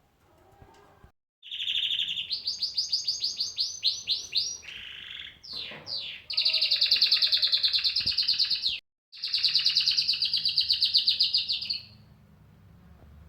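Cockatiel calling: a run of fast repeated high chirps and a falling whistle, then two long, rapidly pulsing high calls separated by a brief break, stopping near the end.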